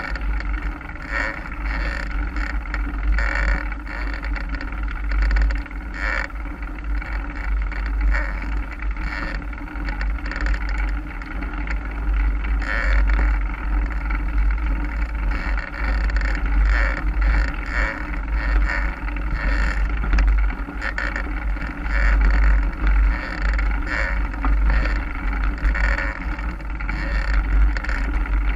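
Mountain bike riding over a forest trail: a steady rumble of wind buffeting the microphone, with the bike's rattle and tyre noise over the ground coming and going.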